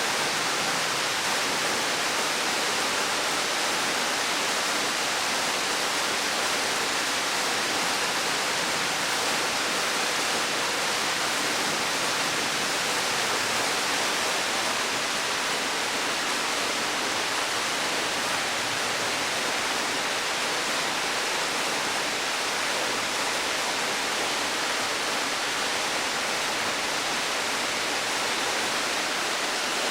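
Waterfall: water plunging and splashing into its pool, a steady unbroken rush.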